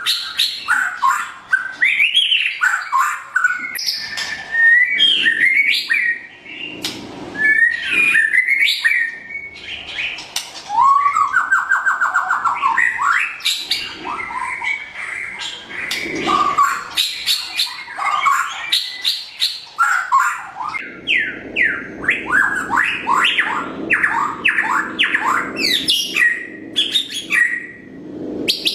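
White-rumped shama singing a long, varied song of loud whistled phrases and sweeps. A warbling trill comes near the middle, and quick runs of rising notes come toward the end.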